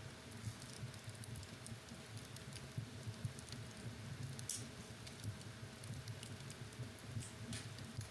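Wood fire burning in a fireplace: irregular sharp crackles and pops, a few louder snaps among them, over a low flickering rumble of the flames. A faint steady hum runs underneath.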